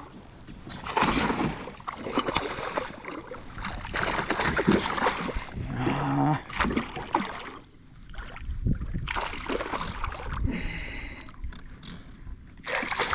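Irregular splashing and water sloshing as a hooked redfish thrashes beside a kayak while it is landed, with knocks from handling.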